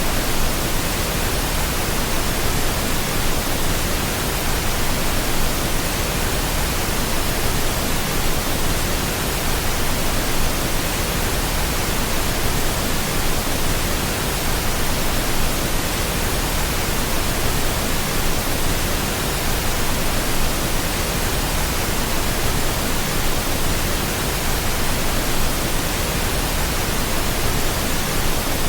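Steady synthetic pink noise: an even, unchanging hiss spread across all pitches, with no breaks or changes.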